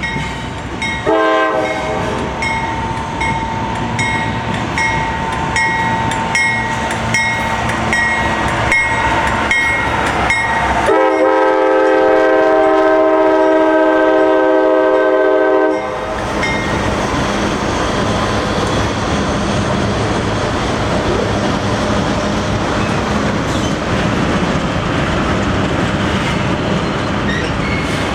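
Passing train on a CSX main line: the locomotive's multi-tone air horn sounds a short blast about a second in and a long blast that cuts off suddenly about 16 seconds in, over a regular clickety-clack of wheels on the rails. After the horn, the steady rumble of the train rolling by.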